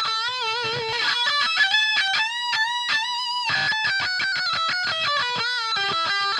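Distorted electric guitar lead line played through a mini guitar amp into a 4x12 cabinet: single sustained notes shaken with wide vibrato, in short phrases.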